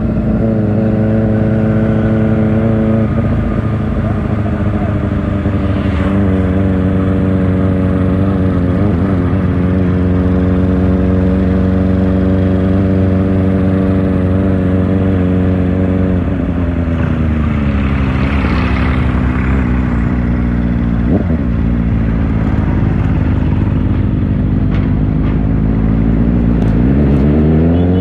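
Kawasaki Ninja ZX-4R inline-four engine running through an Akrapovic exhaust at fairly steady revs while riding. The pitch drops about sixteen seconds in, holds lower, then climbs quickly as the engine revs up near the end.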